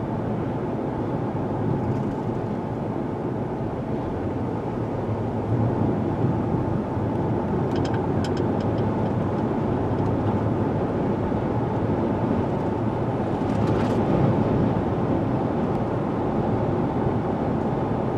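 Steady in-cabin drone of a 2016 Ford Explorer driving at road speed, tyre, wind and engine noise blended, from its freshly repaired 3.7 L V6 being run in so the new rings seat. A few faint ticks sound around eight seconds and again around fourteen seconds.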